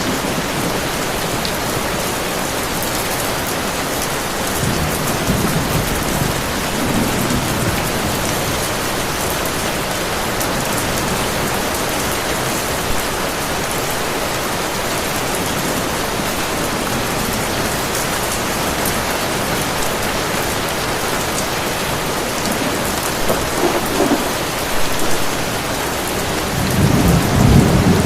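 Heavy rain falling steadily, with low rolls of distant thunder twice, the second and louder one building near the end.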